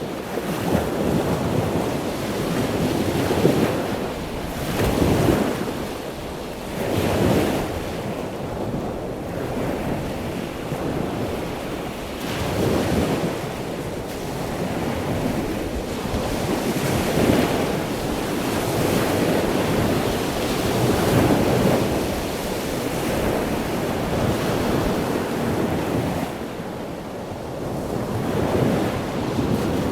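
Ocean waves breaking over and over, the surf swelling and easing every few seconds, with wind.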